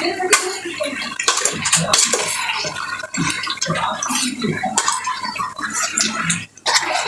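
Metal spoon clattering and scraping in a pan as yogurt-marinated chicken is tipped in and stirred through the fried onions, with a wet sizzle underneath.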